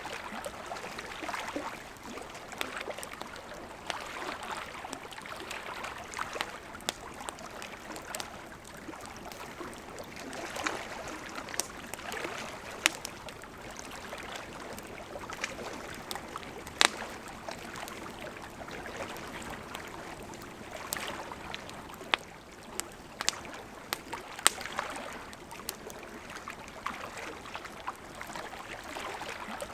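Campfire crackling, with scattered sharp pops, over the steady rush of a gently flowing river.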